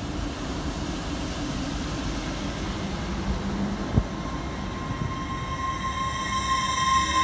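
TransPennine Express train moving alongside with a steady rumble; about four seconds in there is a single sharp knock, after which a steady whine sets in and higher tones build up, one of them rising as the train gathers speed.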